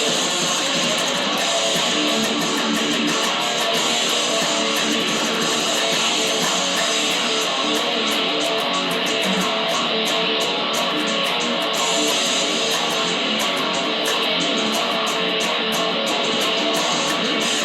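Guitar music, strummed.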